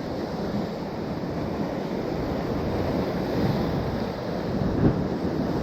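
Ocean surf washing steadily, with wind on the microphone; a wave swells briefly louder about five seconds in.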